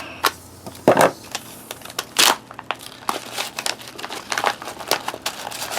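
Vacuum-sealed freeze-dried food pouch crinkling as it is handled and opened: a run of short crackles, loudest about a second in and again about two seconds in.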